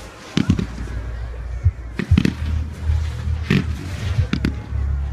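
Fireworks going off at a display: sharp bangs about half a second in, twice around two seconds, once near three and a half seconds and a close pair near four and a half, over a low steady rumble.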